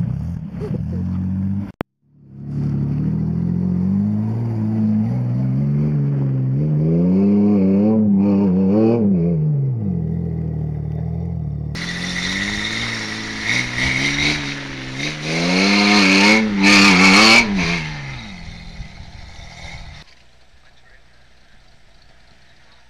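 Off-road pickup truck engine revving, its pitch rising and falling repeatedly as it works under load. From about halfway through, a loud hiss and crackle joins the engine, and near the end everything drops away.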